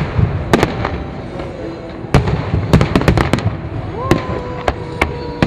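Fireworks display: shells bursting with sharp bangs at irregular intervals over a steady crackle and rumble. A steady whistling tone starts about four seconds in.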